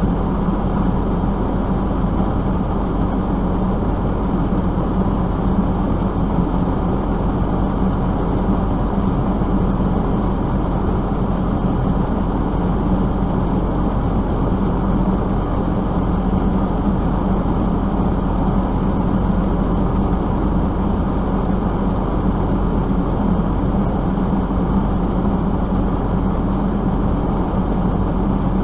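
Steady vehicle noise: a motor vehicle running with an even low rumble and a constant hum, unchanging throughout.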